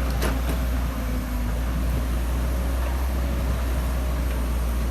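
Excavator's diesel engine running steadily under load, a deep continuous drone, with a brief clatter just after the start.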